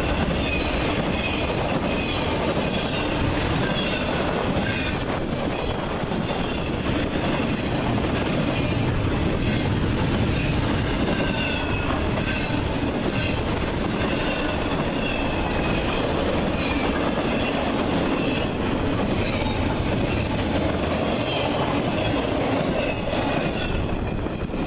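Train cars rolling past with a steady rumble and short, high wheel squeals again and again.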